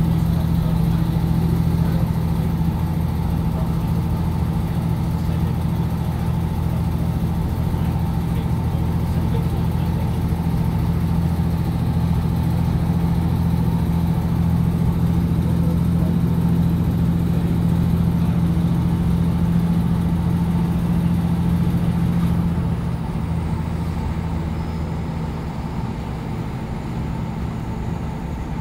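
Diesel passenger train running at speed, heard from inside the carriage: a steady low engine drone with wheel and rail noise. About three quarters of the way through it eases off a little and becomes duller.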